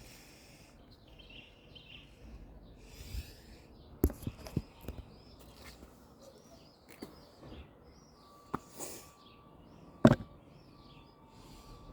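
Small birds chirping and twittering, with a few sharp knocks: a cluster about four seconds in and a louder one about ten seconds in.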